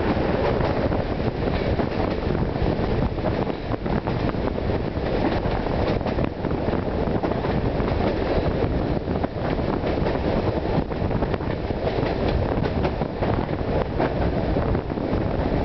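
Passenger train running at speed, a steady rumble of wheels on the rails, heard from an open carriage window with wind rushing past.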